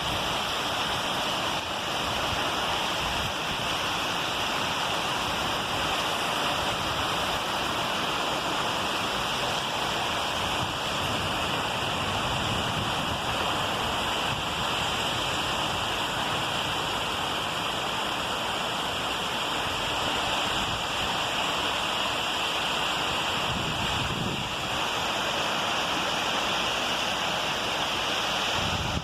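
Heavy rain pouring down steadily, a constant even hiss of water.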